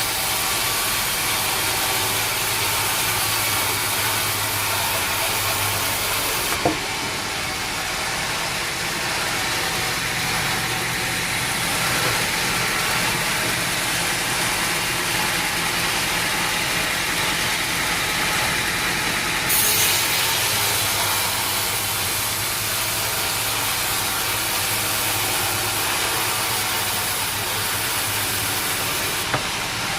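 Sawmill machinery running steadily, an engine together with saw noise. The sound changes abruptly twice, about seven and twenty seconds in, the first time with a short sharp knock.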